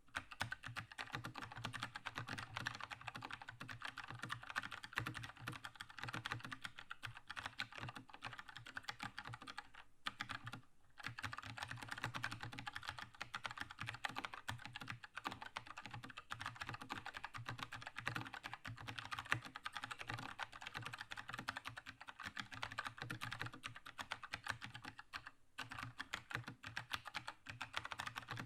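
Continuous fast typing on a Keychron K2 mechanical keyboard with linear red switches: dense keystroke clacks, with brief pauses about ten seconds in and again near 25 seconds.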